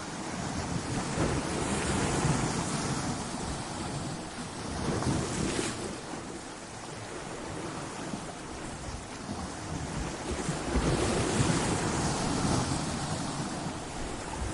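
Ocean waves breaking against a rocky shore: a continuous rushing wash that surges louder about two seconds in, again around five seconds, and longest from about eleven to twelve and a half seconds.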